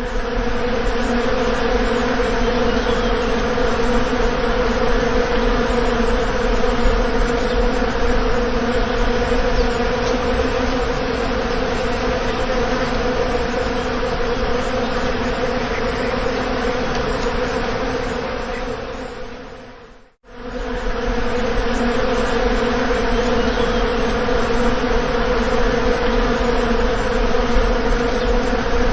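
Bees buzzing in a loud, steady drone. The sound fades out and straight back in about two-thirds of the way through.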